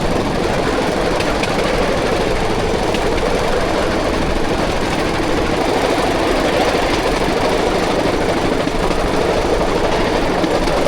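Bamboo train running along the rails: its small engine running steadily, mixed with the rattle of the bamboo platform and wheels over the uneven track, very loud.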